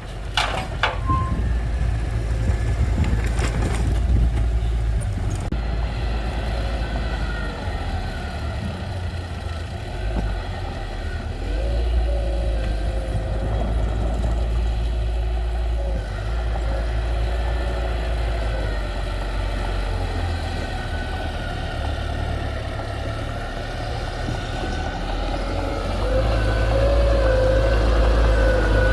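Heavy diesel engine of construction equipment running steadily, its pitch wavering up and down as it works, with a few sharp clanks in the first few seconds; it gets louder near the end.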